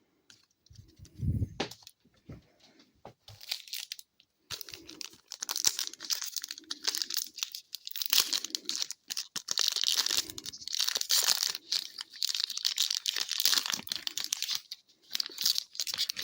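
A hockey card pack wrapper being torn open and crinkled in the hands: quick, irregular, crackly rustling that starts about three and a half seconds in and keeps on with short pauses. A soft thump about a second in.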